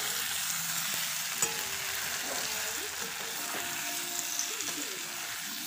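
Okra, onions and masala sizzling in hot oil in a pan while a spatula stirs and scrapes them together.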